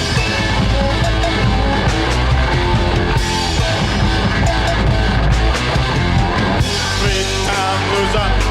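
Recorded rock music from a late-1970s single: electric guitar, bass guitar and a drum kit playing at a steady beat.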